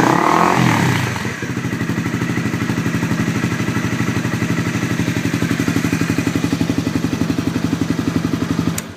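Honda CBR250R's single-cylinder engine through a Yoshimura aftermarket exhaust: a quick rev in the first second, then settling to a steady idle with a fast, even pulse.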